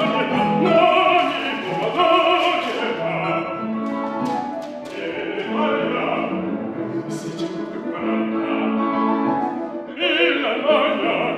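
Opera singing with instrumental accompaniment; the sung voice shows a wide vibrato, most plainly near the end.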